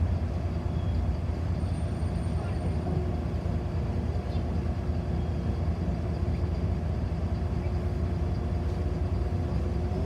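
City bus standing at a stop, heard from inside the passenger cabin: a steady low hum from the running bus, with a few constant tones over it.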